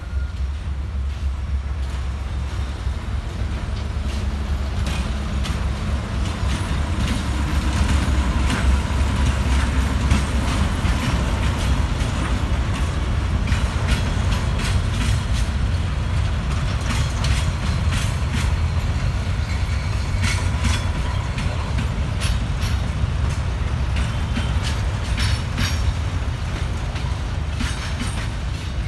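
Czech-built D12E diesel locomotive's engine running as it comes past, then a long freight train of boxcars rolling by, their wheels clacking over the rail joints. The low engine rumble is strongest in the first half, peaking about a third of the way in.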